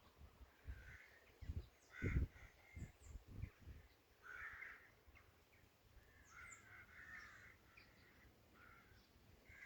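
Distant birds calling: a series of short, noisy calls repeated every second or so, with a few faint low knocks in the first few seconds.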